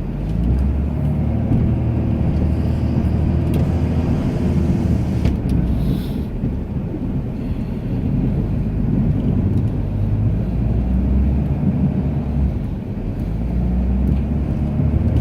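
Ram 2500 pickup engine running under load while plowing snow, its revs rising and falling, with a brief drop in revs near the end.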